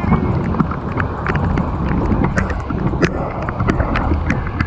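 Wind buffeting the microphone with a steady low rumble, and many irregular sharp taps of rain landing on it.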